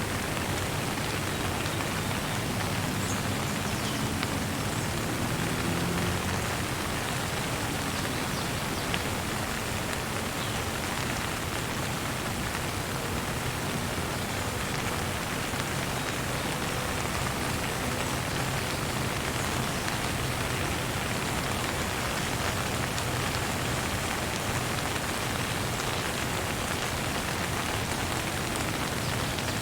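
Steady rain falling and pattering on a surface, an even continuous hiss with no let-up.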